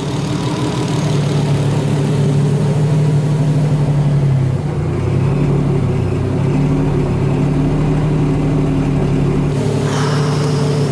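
Freshly rebuilt Nissan RB straight-six engine idling steadily on its first run, warming up, with a slight dip in engine note about halfway through.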